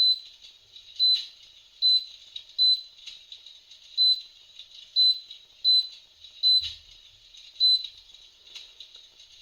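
Electric fireplace's touch control panel giving about ten short, high confirmation beeps, roughly one a second, as the hearth backlight colour is stepped through.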